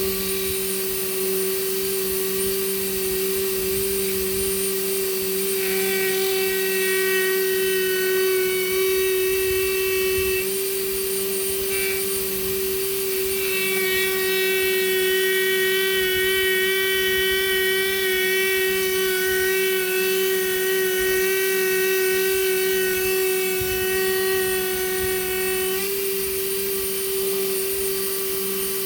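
High-speed rotary power tool running steadily with a constant whine while carving manzanita wood; its upper tones come and go several times as it bears on the wood.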